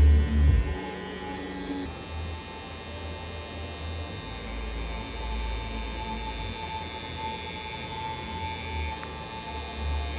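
Electric tattoo machine buzzing steadily as it runs, with a few low thumps in the first second.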